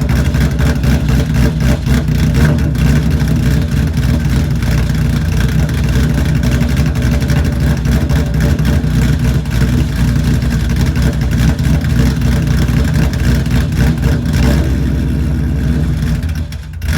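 Ford Mustang GT V8 through an aftermarket exhaust, held at a steady, uneven idle from its ghost cam tune. The engine dips briefly just before the end.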